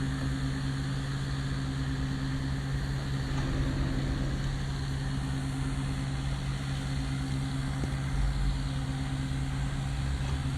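Steady low machine hum holding one constant pitch, with even background noise and no change throughout.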